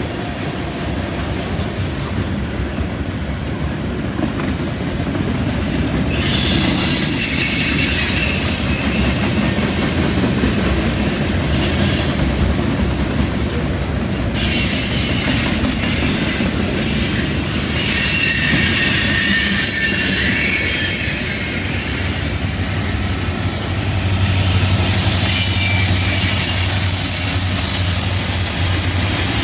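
Freight train cars rolling past on a curve, with steel wheels squealing against the rails in several high tones over a steady rumble and clatter. Near the end the low drone of a mid-train diesel locomotive, a distributed power unit, joins in as it comes by.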